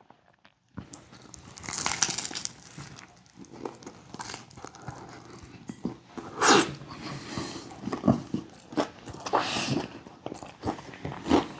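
A person biting into and chewing a chicken taco close to the microphone, irregular crunches and mouth sounds, loudest about six and a half seconds in.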